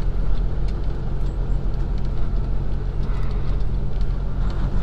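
Semi truck's diesel engine running steadily while driving, heard from inside the cab, with road noise and small scattered rattles.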